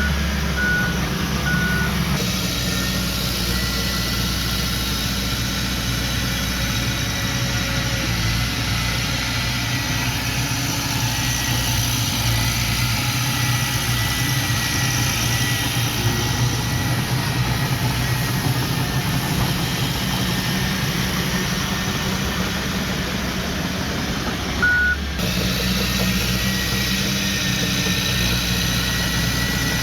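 Heavy construction machine's diesel engine running steadily at a low rumble, with a few short high beeps near the start and again about 25 seconds in.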